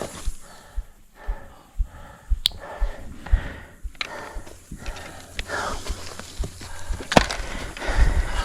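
Rustling, clicks and knocks of climbing harness and gear being handled and taken off, with a sharp click about two and a half seconds in and another near the end.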